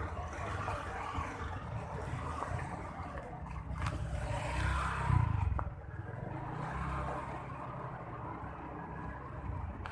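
A motor vehicle's engine rumbling past, loudest about five seconds in and then falling away.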